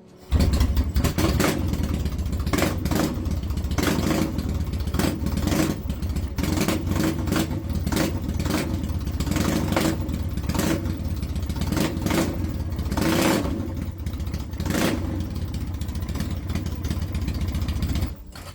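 1972 Yamaha XS custom bobber's engine running loudly, with repeated sharp blips and revs over a steady low rumble.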